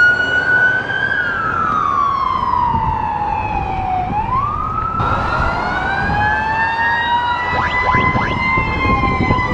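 Emergency vehicle sirens wailing on a slow rise and fall, over vehicle rumble. A second siren joins about halfway through, the two wailing at different pitches.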